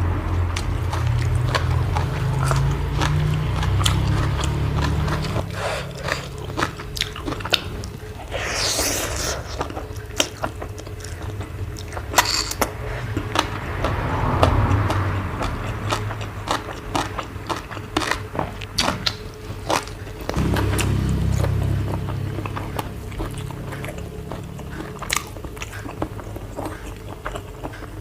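A person chewing and crunching food close to the microphone, with many sharp crunches and clicks and stretches of low chewing rumble near the start and at about 20 seconds.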